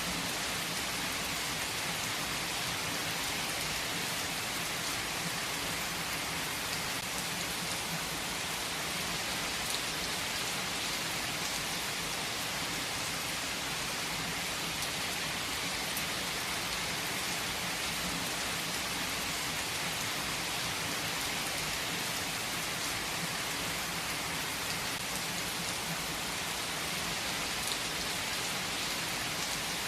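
Heavy rain falling steadily, a dense even hiss of raindrops on surfaces with a few sharper drop ticks.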